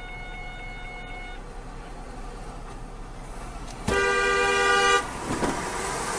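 A car horn sounds once, a steady blast of about a second, over a constant hum of road and engine noise.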